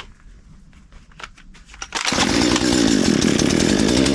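Chainsaw being pulled over with a few short clicks, then catching about two seconds in and running loudly and steadily. Its fuel tank has had oil poured into it, and the saw is expected to run rich.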